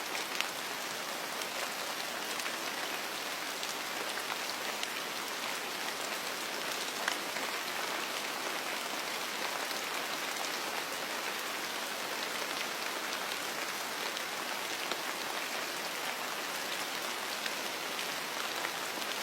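Steady rain falling on a surface, an even hiss dotted with the ticks of single drops.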